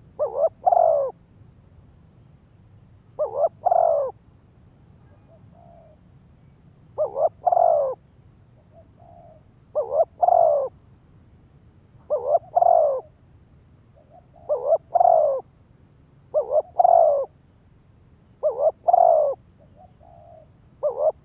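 Spotted dove cooing over and over, about one phrase every two seconds: each phrase is two short notes run into a longer, falling note. Fainter, softer notes fall between some of the phrases.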